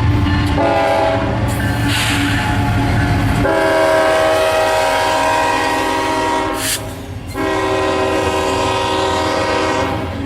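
Freight diesel locomotive sounding its air horn in long chord blasts, with a brief break about seven seconds in, over the low rumble of the passing train.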